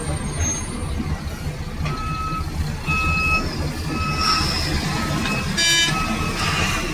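Heavy mining vehicle's diesel engine running with its reversing alarm beeping about once a second from about two seconds in. A brief shrill squeal near the end.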